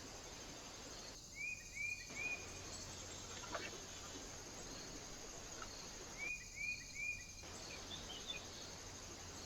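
A small bird calling twice in a group of three short chirps, about five seconds apart, over a steady high insect trill.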